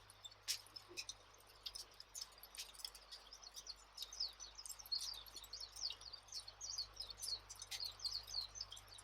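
Campfire crackling, with scattered sharp pops, over a continuous background of many small birds chirping rapidly.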